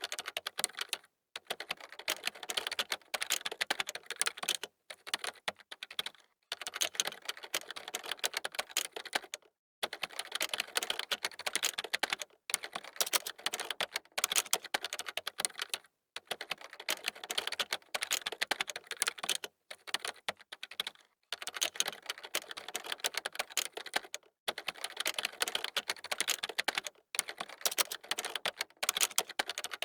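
Typing on a computer keyboard: dense runs of key clicks a few seconds long, broken by brief pauses every few seconds.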